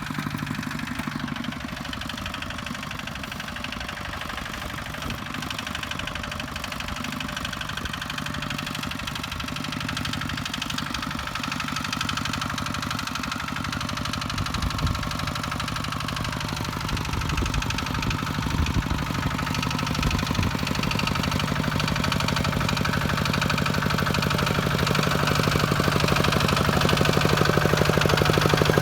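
Single-cylinder diesel engine of a Kubota walking tractor running steadily with a rapid knocking beat, growing louder toward the end.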